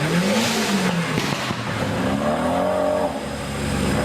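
Off-road 4x4 engine revving up and falling back twice, with a brief burst of hiss about a second in.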